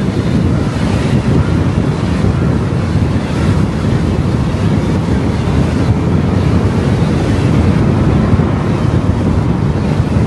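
Steady road and wind noise of a car driving at speed: a dense low rumble with a fainter hiss above it.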